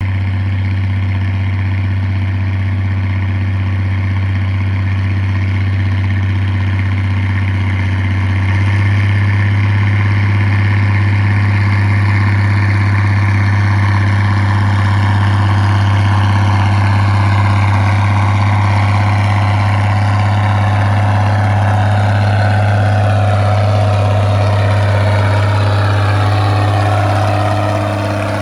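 Ford 8210 tractor's six-cylinder diesel engine running loud and steady while pulling up a steep bank. It gets louder about a third of the way in and eases off slightly just before the end.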